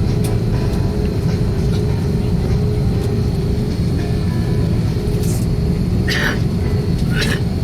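Steady low rumble of an airliner cabin with the engines running before takeoff, with two brief sharp noises about six and seven seconds in.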